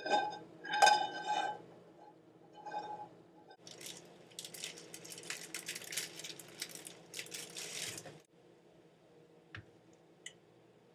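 Metal cookware clinking with a short ringing tone, three times in the first three seconds. Then about four seconds of irregular crinkling from plastic packaging being handled, which stops suddenly.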